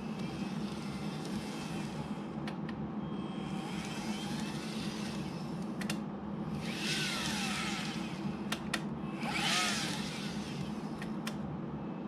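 KATO OUIGO N gauge model train running on track: a steady motor whir with the sound of the wheels swelling four times as the train passes, and a few sharp clicks.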